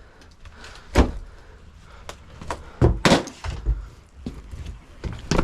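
Sheet metal of a freezer cabinet being pried and pulled apart by hand: a few sharp knocks and thuds with smaller clicks between, the loudest about a second in and twice close together around three seconds in.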